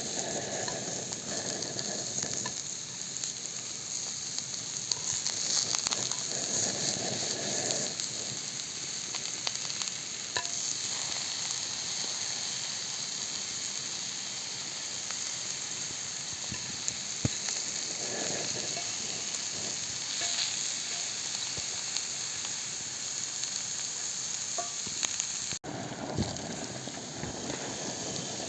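Fried eggs sizzling steadily in a frying pan, with a brief sudden break about 25 seconds in.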